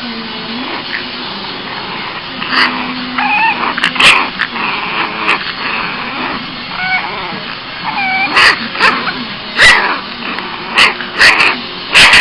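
Boston Terrier puppy whining in high, wavering cries and letting out short yips and barks, which come more often toward the end: a cranky, fussing puppy.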